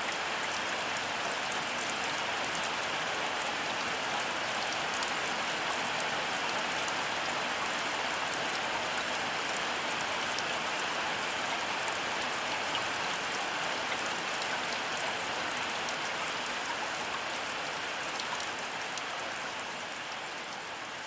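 Heavy rain falling steadily, a dense hiss with fine pattering drops and no thunder, fading away near the end.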